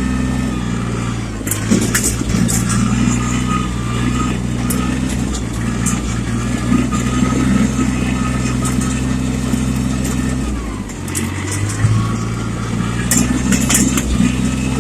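Small Yanmar tractor's diesel engine running steadily as it drives, with a higher whine over the engine note; the engine note dips briefly about ten seconds in, then picks back up. Scattered clanks and rattles come through over it.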